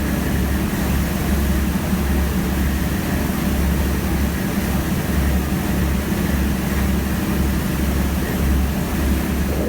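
A steady low engine drone with a rushing, wind-like noise over it.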